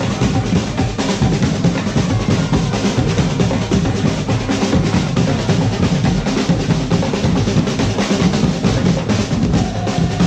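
Percussion group playing a fast, steady drum rhythm without a break.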